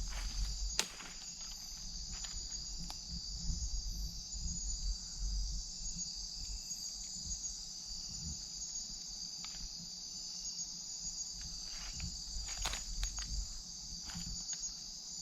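Night-time rainforest insect chorus: a steady, high-pitched shrill that never lets up, with scattered faint clicks and low thuds close by.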